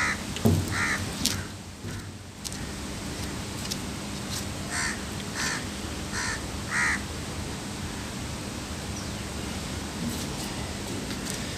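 Crows cawing: two caws at the start, then a run of four caws about five seconds in, over a steady background hiss. A few knocks near the start.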